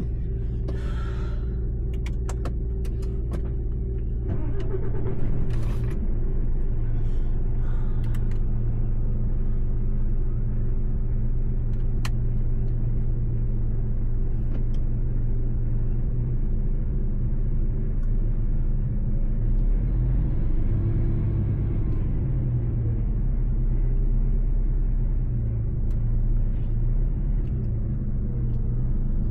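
Mercedes-Benz truck's diesel engine running steadily as the truck drives, a low drone that gets louder about five seconds in. A few clicks and creaks come in the first eight seconds.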